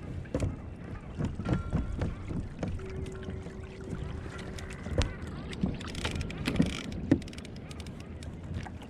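Irregular knocks and thuds on a plastic pedal fishing kayak over a rumble of water moving around the hull, with some wind on the microphone.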